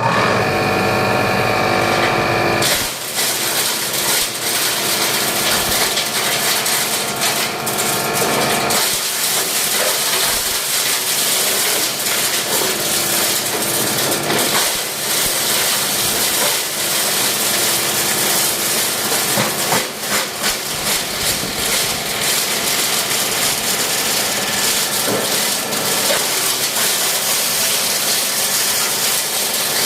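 Electric plastic shredder (type P30, 5 hp three-phase motor) running, with a steady tone for the first few seconds, then continuous clattering and cracking as its blades chop plastic.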